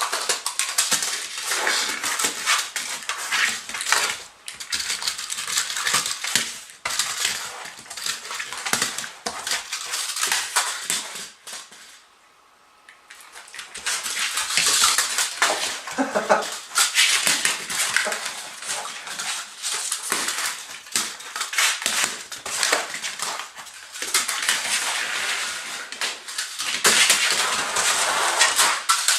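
A smooth fox terrier scuffling with a remote-controlled plastic toy spider: a loud, dense clatter of plastic knocks and scrapes. It pauses briefly about twelve seconds in.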